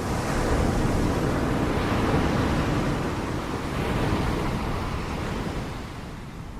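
Ocean waves breaking in a steady rush of surf that swells up about half a second in and eases off over the last couple of seconds.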